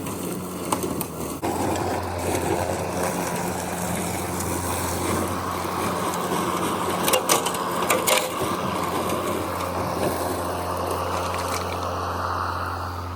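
Mowrator S1 battery-electric remote-control mower driving and cutting grass with its blade spinning: a steady motor hum under a coarse rush of cutting, with a few sharp cracks about seven to eight seconds in.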